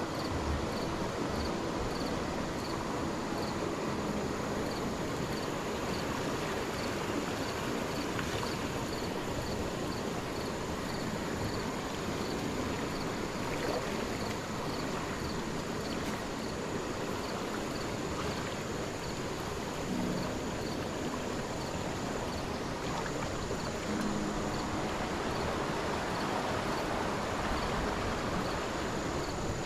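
A rainforest stream flowing steadily over its bed, an even rush of water. Above it a regular faint high chirp and a thin steady high whine, typical of insects.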